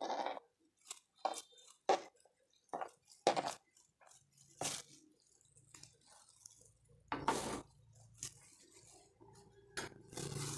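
Diced tomatoes being scraped off a plastic cutting board into a stone mortar (cobek). About ten short knocks and clinks against the stone come at irregular intervals, with a longer scrape about seven seconds in.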